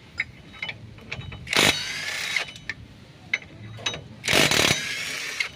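Two short bursts of a power tool running during wheel hub bearing work, each about a second long, the first about a second and a half in and the second near the end. Light metallic clicks and taps of tools come between them.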